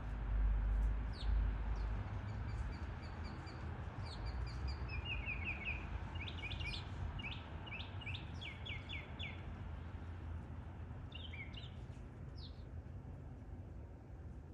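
Wild birds calling: a run of short repeated chirping notes that speeds up and then slows, followed by a few more chirps near the end, over a steady low background rumble that is strongest in the first couple of seconds.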